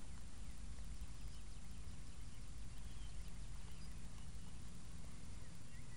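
Steady low outdoor background rumble with faint, scattered high chirps.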